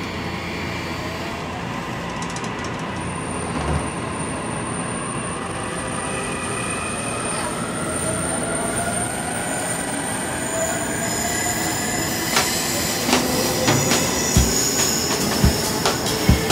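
Electric train running on rails, with a steady rumble and a whine in slowly gliding pitches. Near the end the wheels knock over rail joints in a regular beat, about once a second.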